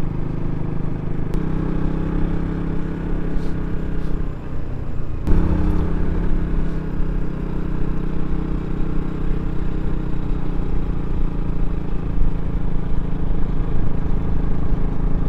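KTM RC 200's single-cylinder engine running at a steady note under way, with wind noise on the microphone. About four seconds in the engine note sags and fades as the throttle is eased, then a sharp knock and the engine picks back up to a steady note.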